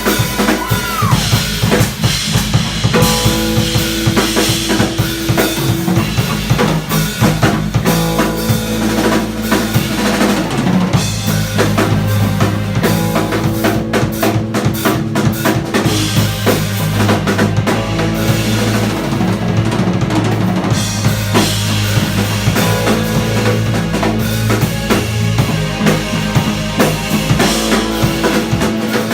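Live funk band playing an instrumental groove: a drum kit with steady kick, snare and rimshot hits over bass notes, with piano and guitar lines on top.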